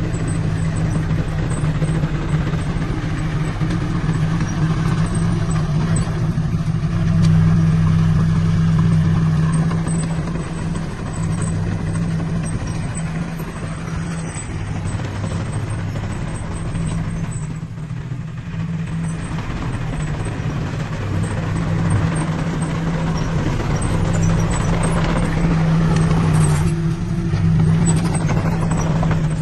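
Diesel engine of heavy earthmoving equipment running steadily with a deep, even hum. It eases off briefly about two-thirds of the way through.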